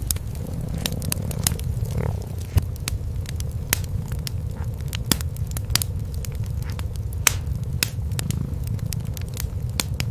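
Wood fire crackling, with frequent sharp pops at irregular intervals, over a steady low cat purr.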